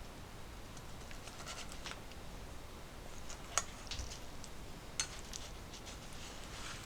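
Light scraping and rustling of things being handled, with a few sharp clicks, the loudest about halfway through.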